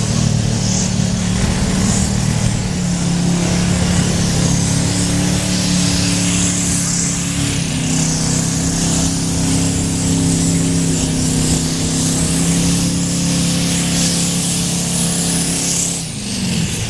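Engine of a pulling tractor running at a steady pitch during start-up, loud throughout, then falling in pitch and level near the end.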